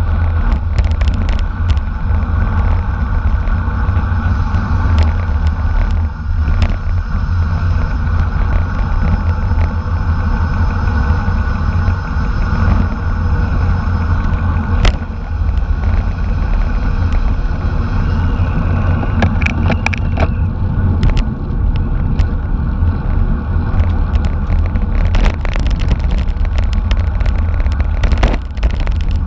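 Steady deep wind rumble and road noise from riding in a bicycle race, with scattered sharp clicks and a cluster of clicks near the end.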